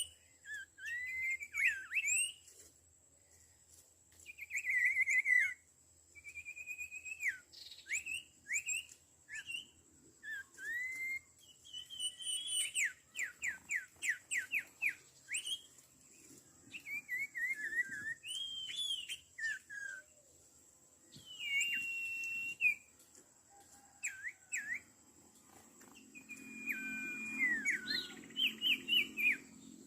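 Common iora (sirtu) calling: a long, chattering run of varied clear whistles, with quick runs of falling notes and a few longer held whistles.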